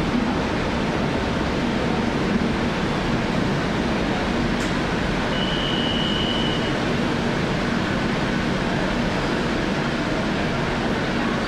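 Steady rumble of trains in a railway station, with a short high-pitched tone about halfway through.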